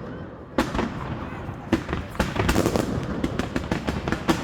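Fireworks going off: a series of sharp bangs, a loud one just over half a second in, then a quick run of crackling pops through the second half.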